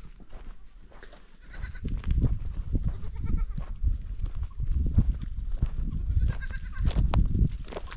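Goats bleating: three short calls, about two, three and a half and six and a half seconds in. Under them a steady low rumble starts about a second and a half in.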